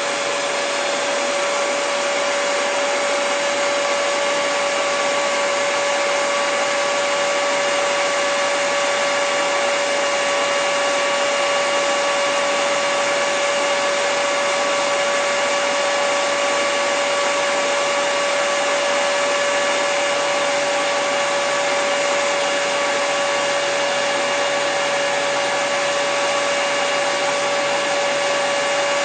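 Handheld hair dryer running steadily: an even rush of air with a steady motor whine.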